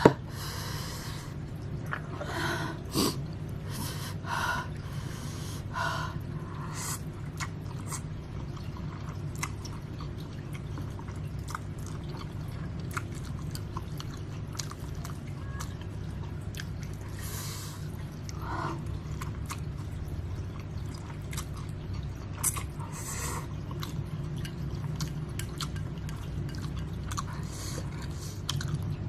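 Close-up eating of spicy Samyang instant noodles: chewing, with several short slurps and small clicks, over a steady low hum.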